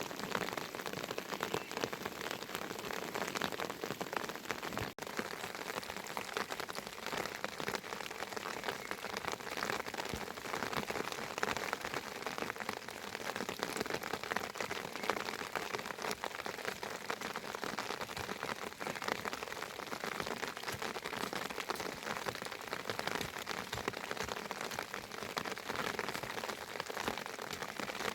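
Heavy rain falling steadily, a dense patter of many drops on surfaces, with a momentary dropout about five seconds in.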